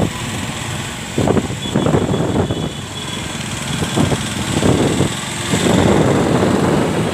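A car driving, its engine and road noise uneven, swelling and easing every second or so.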